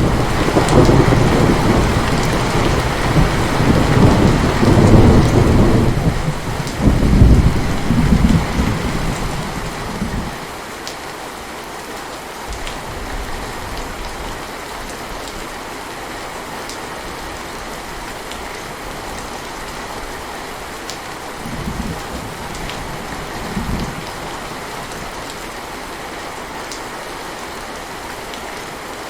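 Heavy, steady rain with a long roll of thunder rumbling loudly through the first ten seconds and fading out, then two brief low thunder rumbles later on.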